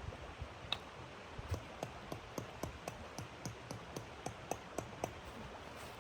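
A rapid series of short, sharp taps or clicks, about three to four a second, over a faint steady hiss.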